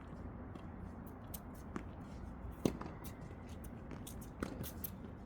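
Tennis balls being hit and bouncing during a drill: a few sharp pops, the loudest about two and a half seconds in, over a steady low background noise.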